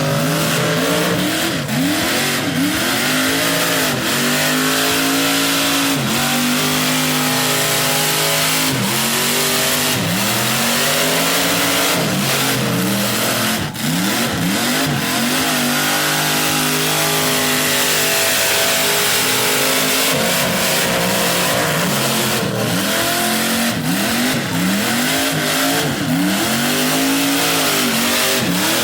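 Big truck engines revving hard again and again, the pitch sweeping up and down about once a second. In between, stretches of a few seconds are held steady at high revs.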